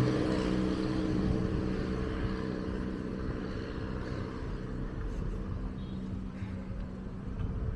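Street traffic: a motor vehicle's engine hum fades away over the first few seconds, leaving a steady rumble of road noise.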